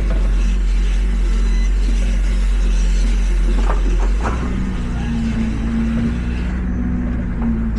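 Tractor engine running steadily, with a strong low drone; its note changes about four seconds in, and there are a couple of light knocks just before.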